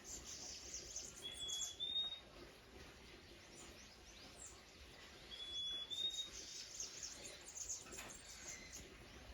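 Small birds calling: a clear whistled note, held briefly and then stepping a little higher, given twice about four seconds apart, over scattered faint high chirps.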